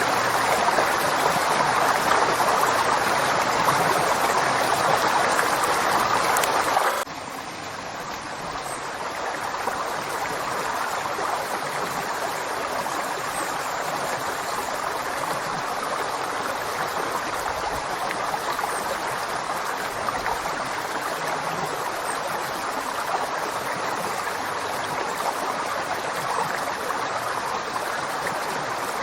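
A flowing river rushing steadily. About seven seconds in it drops suddenly to a quieter, duller rush, which then slowly swells back up.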